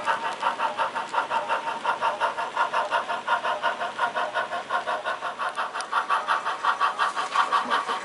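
HO scale model steam locomotive chuffing as it runs, a steady even rhythm of about six chuffs a second.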